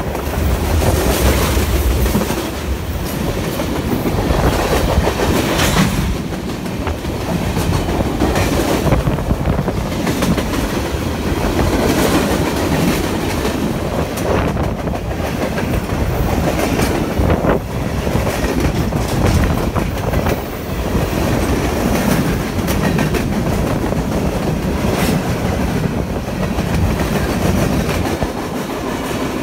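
Freight train cars rolling past, boxcars and open-top hoppers: a steady rumble and rattle of the cars, with the steel wheels clicking over rail joints again and again.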